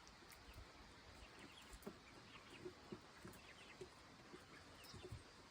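Near silence: a faint outdoor background with scattered soft, short clucks and ticks from chickens.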